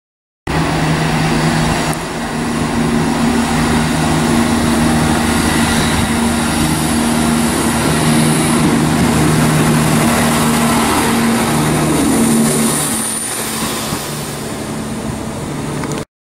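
Class 170 Turbostar diesel multiple unit passing along the platform: steady drone of its underfloor diesel engines over the rush of wheels on rail, easing off a little near the end.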